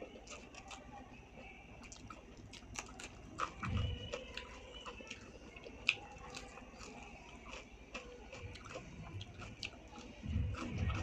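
Close-up chewing and mouth sounds of a person eating rice and curry, with many small wet clicks and smacks, getting louder near the end.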